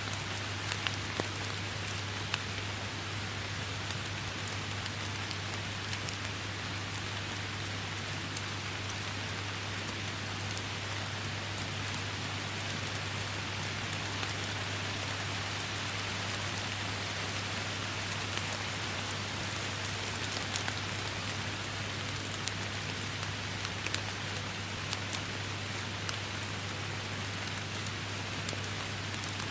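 Steady rain falling in a forest, a constant hiss with scattered individual drops ticking close by, over a steady low hum.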